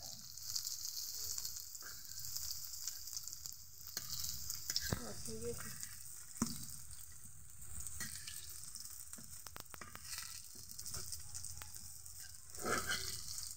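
Batter-coated okra fritters sizzling steadily as they shallow-fry in hot oil in a black kadai. A metal spatula scrapes and taps against the pan a few times as the fritters are turned over to fry the other side.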